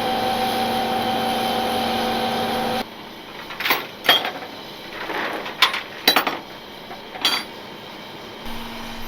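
A truck engine running with a steady hum that cuts off abruptly about three seconds in. Then come five or six sharp metallic clanks and clinks spread over the next few seconds, and a low hum returns near the end.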